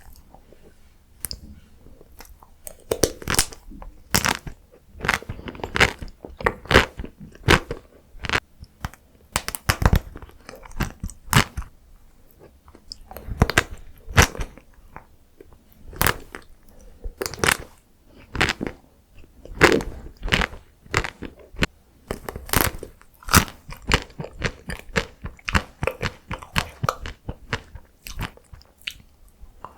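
Close-miked crunching and chewing of chocolate and matcha ice cream: quick, irregular sharp crunches as the frozen pieces are bitten and chewed.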